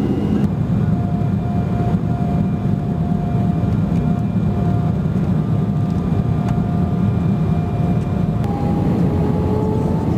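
Jet airliner engine and cabin noise from a window seat: a loud, even rush with steady engine hum. It changes abruptly about half a second in and again near the end, as one flight's recording gives way to another's.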